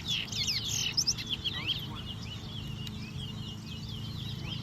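Towa-towa seed finches singing in a finch-song race: quick, overlapping chirps and short trills, thickest in the first second or so.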